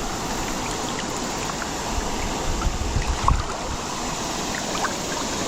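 Steady rush of a creek running high and fast after heavy rain, with a few low bumps a little past halfway.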